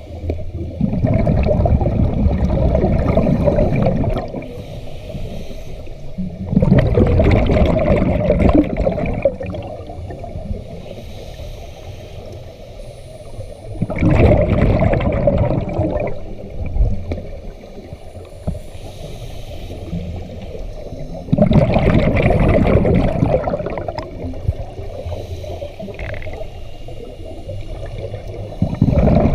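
Scuba diver breathing through a regulator underwater: loud gurgling bursts of exhaled bubbles, each two to three seconds long, come about every seven seconds, with quieter stretches in between.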